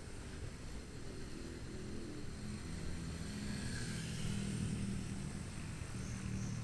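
Motorcycle engine running under way, mixed with low wind and road rumble; its engine note grows stronger about two seconds in.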